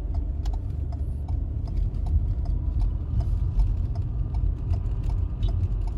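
Car interior road and engine rumble while driving, with the even ticking of the indicator (turn-signal or hazard-light) relay, about two to three clicks a second.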